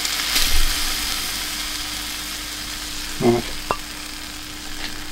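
Diced chicken breast sizzling in a hot frying pan, stirred and turned with a wooden spatula. The sizzle slowly eases off, with a short scrape near the start and a small knock about three and a half seconds in.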